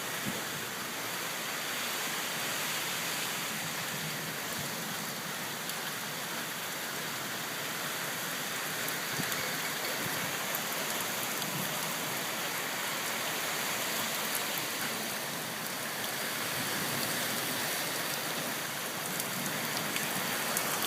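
Rainstorm: rain falling steadily, an even hiss with scattered fine ticks of drops striking.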